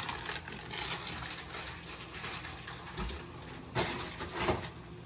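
Spoon stirring and scraping ground meat in a frying pan as it browns, with a couple of louder scrapes against the pan near the end.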